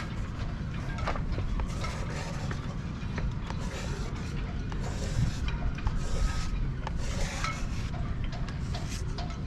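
Rubbing and scraping handling noises with scattered clicks and short hissing stretches over a steady low rumble.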